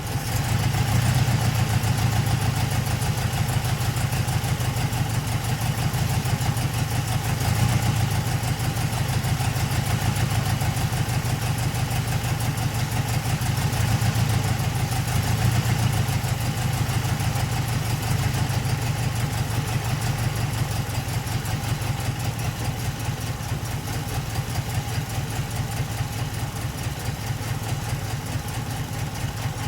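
Datsun 510 Bluebird's L16 four-cylinder engine on Solex carburettors idling, a rapid, even beat of firing pulses.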